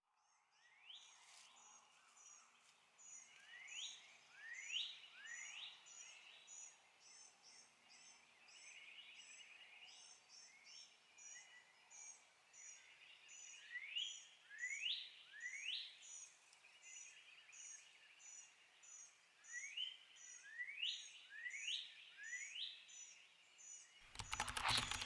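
Birds calling in the woods: a steady run of faint, high double chirps about three a second, with louder upward-sweeping whistles, usually in groups of three, every few seconds. About a second before the end, a loud rushing noise cuts in.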